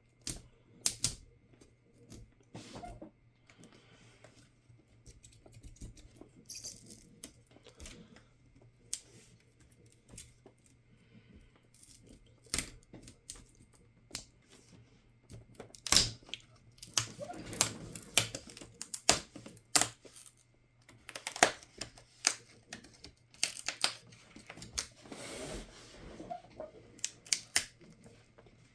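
Irregular sharp clicks, taps and short scrapes of hard plastic parts and small tools being handled during a laptop disassembly, sparse at first and busier from about halfway.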